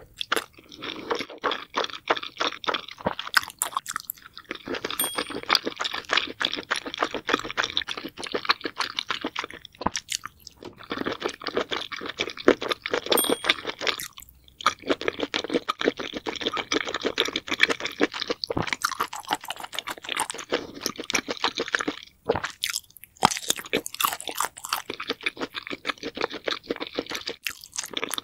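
Close-miked eating sounds of spicy sauced seafood such as boiled octopus and squid: wet chewing, crunching and mouth smacks in runs, with brief pauses between bites, sped up to 1.5x.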